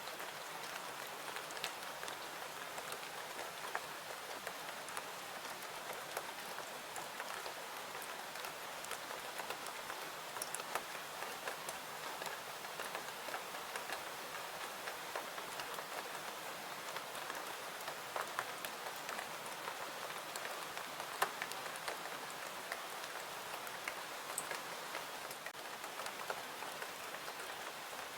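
Steady rain falling, an even hiss with scattered sharp ticks and crackles of a fireplace mixed in.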